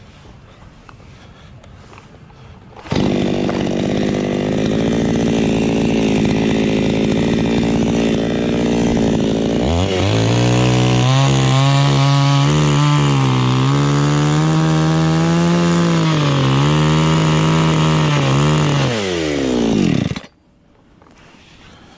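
Chainsaw starting suddenly and running steadily, then dropping to a lower, wavering note from about ten seconds in as it works under load. Its pitch then falls away and it cuts off abruptly near the end.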